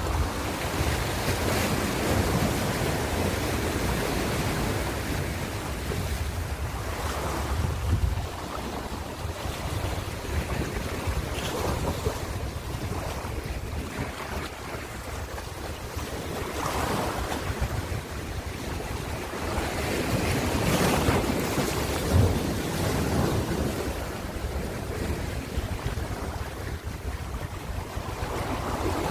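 Ocean waves washing onto the shore, the surf swelling and falling back every few seconds, with one sharper surge about two-thirds of the way through. Wind rumbles steadily on the microphone underneath.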